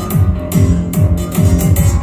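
Roots reggae played loud through a sound system, with heavy bass notes that each drop in pitch, about two a second, under guitar chords.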